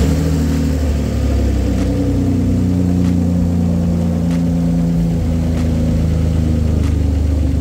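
BMW M52B28 2.8-litre straight-six idling steadily just after starting, running through a temporary centre exhaust section fitted to quieten it.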